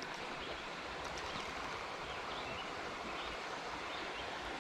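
Creek water running steadily, an even rush with no break.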